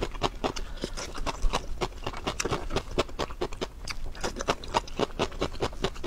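Close-miked chewing and biting: wet mouth clicks and smacks, several a second, as a person eats chili-oil-coated food.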